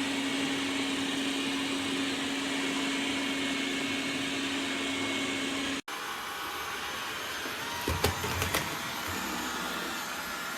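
Dreame D9 Max Gen2 robot vacuum running, its suction motor giving a steady whir with a hum. It breaks off sharply about halfway and resumes, with a few short knocks about two-thirds through.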